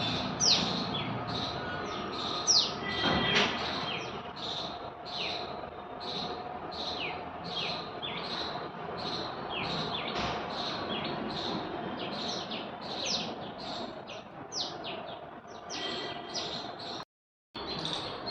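A small bird calling over and over, a quick high falling note about twice a second, with other birds chirping faintly beneath it. A brief louder scraping noise comes about three seconds in.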